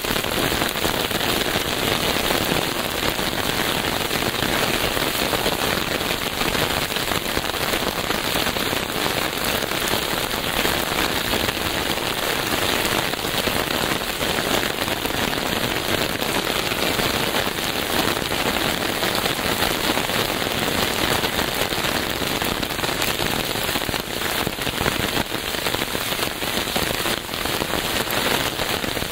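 Steady rain falling on a surface, a dense even patter of many small drops without a break.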